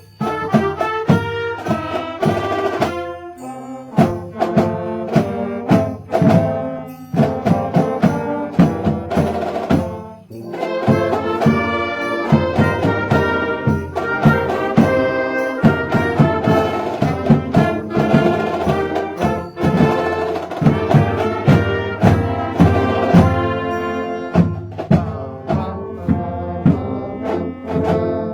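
High school marching band playing a Christmas carol, brass and drums together, with a short break about ten seconds in.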